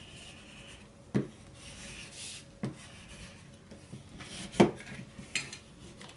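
A folded dollar bill pressed and rubbed along its creases against a tabletop: faint rubbing of paper, with a few sharp crackles or taps, the loudest about two-thirds of the way through.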